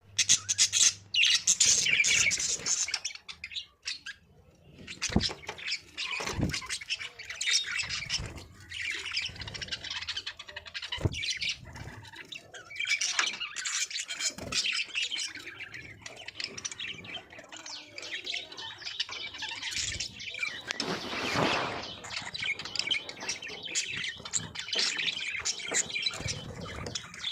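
Budgerigars chirping and chattering continuously, with harsh squawks mixed in, and a few sharp knocks among them.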